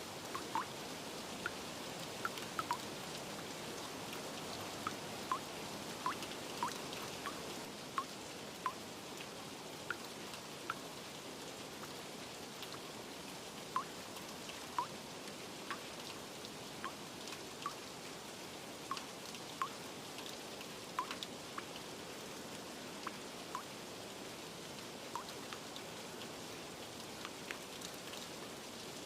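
Steady rain with irregular single drops plinking close by, several a second at times.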